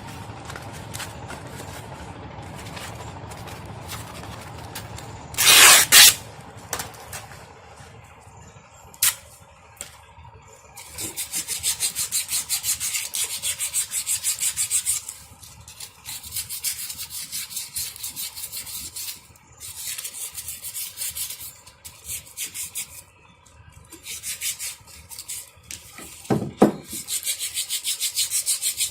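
Hand abrasion of an engine starter part: runs of quick, rhythmic rasping strokes of a few seconds each, with short pauses between. A loud short clatter comes about six seconds in.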